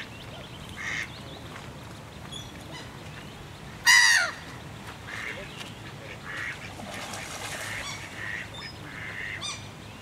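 Birds calling: short calls scattered through, with one loud call falling in pitch about four seconds in.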